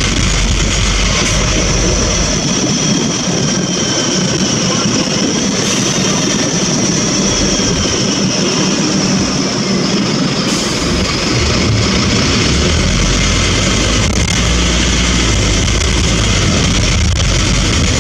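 Scania N230UB bus's diesel engine running under way, with a steady high whine over road noise. The deep engine drone falls away for several seconds mid-way, then comes back and holds.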